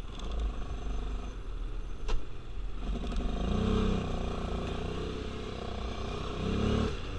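ATV engine running while being ridden, its revs rising and falling a few times, with a low rumble and one sharp knock about two seconds in.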